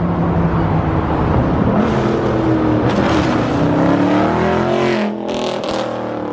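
A car engine running and accelerating close by, its pitch climbing over a couple of seconds and dropping again about five seconds in, with a few short hissy bursts on top.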